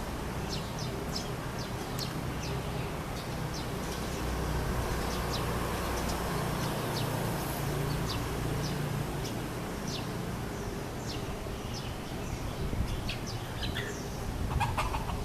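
Small birds chirping, many short sharp high chirps scattered throughout, over a steady low background rumble that swells for a few seconds in the middle.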